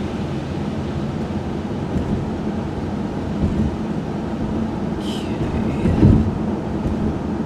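Cabin drone of a 1995 Chevrolet Monte Carlo driving on a wet road: steady engine and tyre rumble, with a short hiss about five seconds in and a low thump about six seconds in.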